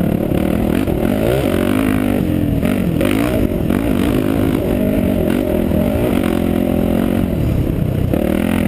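Enduro motorcycle engine, recorded from on board, its pitch rising and falling again and again as the rider opens and closes the throttle.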